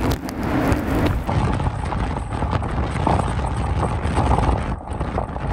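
Strong gusty wind of a snow squall buffeting the microphone, a heavy rumbling roar that rises and falls.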